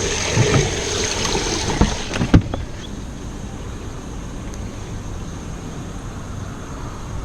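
A few sharp knocks on a small boat, the loudest about two and a half seconds in, then a steady, quieter outdoor rush.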